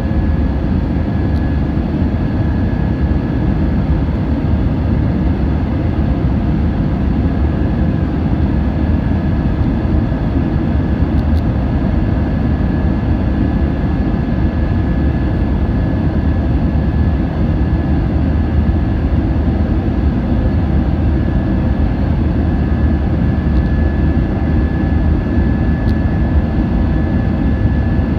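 Airbus A320-232's IAE V2500 jet engines at takeoff, a steady low rumble with a faint high whine.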